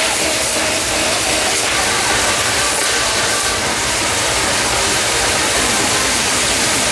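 Ground fireworks burning with a steady, dense hiss.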